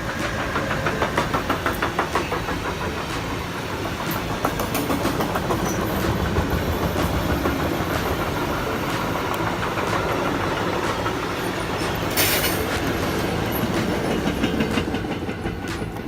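A train passing close by, its wheels clattering rhythmically over the rail joints, with a short hiss about twelve seconds in.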